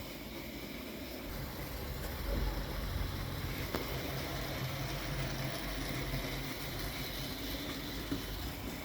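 Hornby Dublo model locomotives running on the layout track, a steady electric-motor hum with the rumble of wheels on rail that grows louder about two seconds in.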